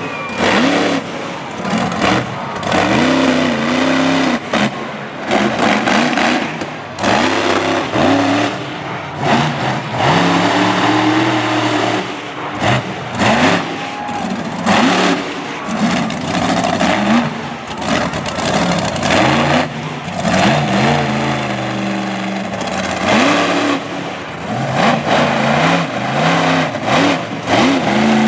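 Monster truck engine revving hard over and over during a freestyle run, its pitch climbing and falling every second or two as the throttle is opened and let off.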